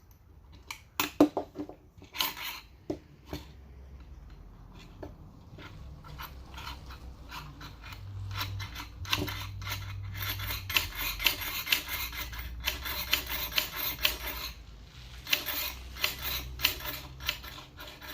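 Metal parts of an ATV pull-start (recoil starter) assembly clinking and scraping under hand work: a few separate clicks at first, then long runs of rapid rasping and clicking with a short break near the end.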